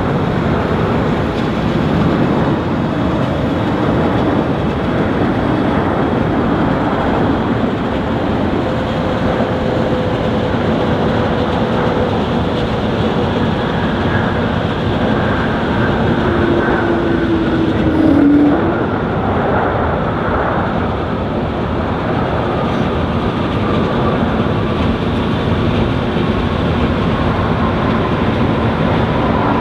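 Boeing 777 twin turbofan jet engines, a loud, steady roar. Faint whining tones slowly fall in pitch, and the sound briefly swells about two-thirds of the way through.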